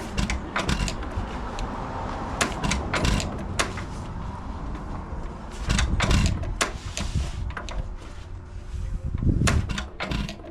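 1 3/4 hp Hercules Economy stationary engine being turned over by hand without catching. Irregular metallic clicks and clanks, with two heavier low surges of effort, about six seconds in and near the end.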